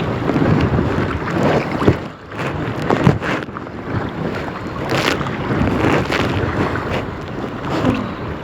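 Wind buffeting the microphone over choppy water, with a few sharp splashes from kayak paddle strokes.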